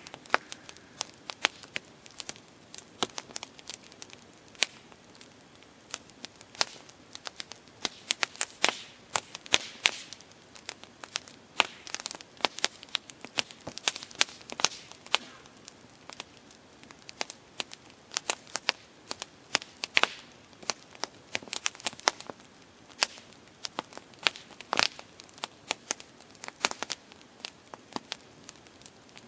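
Campfire crackling: irregular sharp pops and snaps of burning wood over a low steady hiss.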